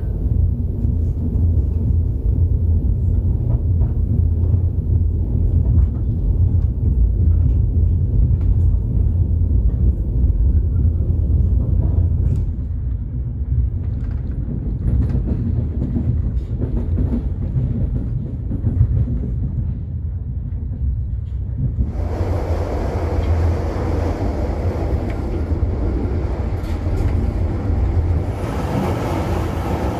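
Passenger train running, heard from inside the dining car: a steady low rumble with faint clicks of the wheels. About 22 seconds in, the sound turns brighter and hissier.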